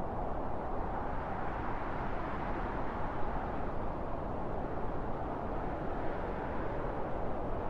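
Arctic wind blowing steadily: a low, even rushing noise that swells and eases slowly.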